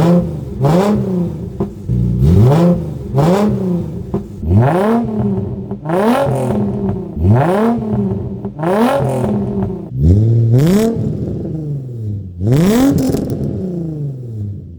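Nissan 350Z's 3.5-litre V6 blipped repeatedly through a new cat-delete test-pipe, Y-pipe and single-exit exhaust. The note rises sharply and falls back toward idle about once a second, with the revs going higher in the second half. The exhaust no longer leaks but is loud.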